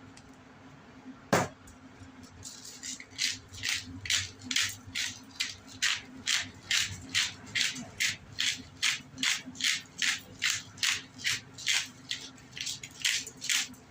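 A sharp click, then a seasoning shaker being shaken steadily over raw chicken, a dry rattling of rub in the shaker at about two shakes a second.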